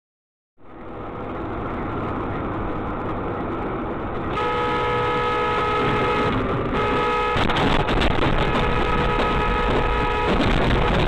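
Car interior and road noise picked up by a dashcam. About four seconds in, a car horn starts sounding as a long, steady honk, with a short break partway through.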